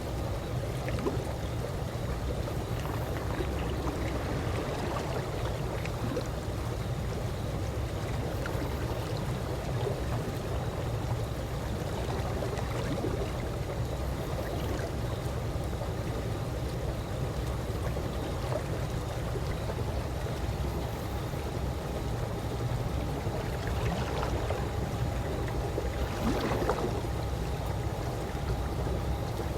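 Calm swimming-pool water moving and gurgling gently over a steady low rumble, with two slightly louder brief water sounds near the end.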